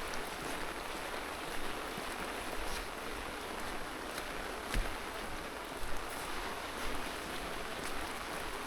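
Steady hiss of falling rain, with scattered sharp ticks of drops landing close by.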